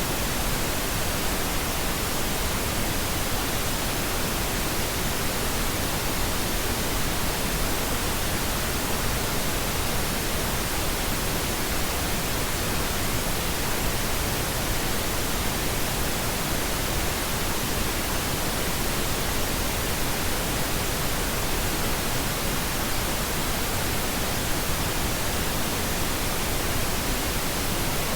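Steady pink noise: an even, unchanging hiss across the whole range, with no tones or events.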